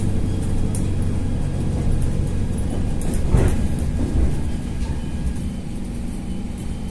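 Diesel passenger train running, heard from inside the carriage: a steady engine drone and wheel rumble with light clicks, and a brief louder swell about three and a half seconds in.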